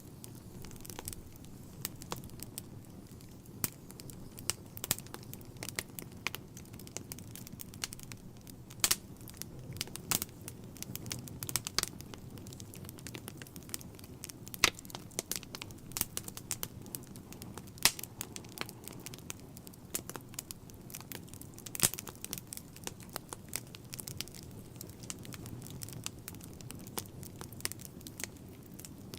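Wood fire burning in a fireplace: a low steady rumble of flame with irregular crackles and sharp pops from the burning logs.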